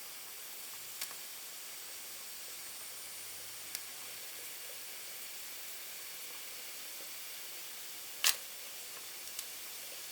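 Steady hiss from a solid-fuel-fired MSS side tank live-steam locomotive warming up as its boiler begins to raise steam, with a few sharp clicks, the loudest about eight seconds in.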